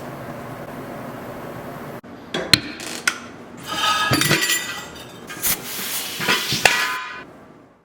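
A steady hiss, then, after an abrupt cut about two seconds in, a run of sharp metallic clanks and clinks with a ringing tail, like steel tools or parts being knocked and set down. It fades out near the end.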